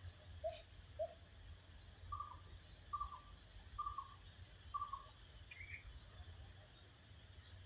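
A bird calling in short, separate notes: two low notes, then four evenly spaced slightly higher notes about a second apart, and a single higher note near the end. A steady low rumble runs underneath.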